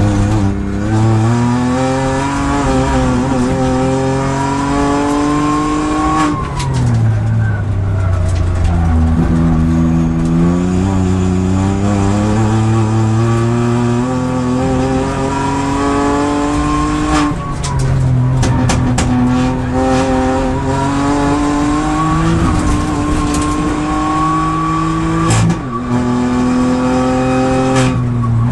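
Kia Picanto GT Cup race car's engine heard from inside the cockpit under hard acceleration, its note climbing through each gear and dropping back at the upshifts, several times over. A run of sharp clicks and knocks comes about two-thirds of the way through.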